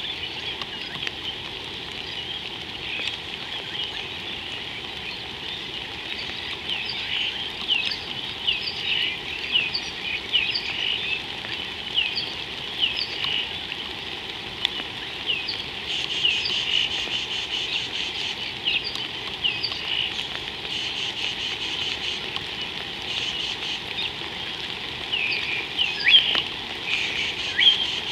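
Wild birds calling over and over in short sweeping chirps, several a second, with bursts of a faster, higher buzzing trill joining from about halfway on, over a steady background hiss.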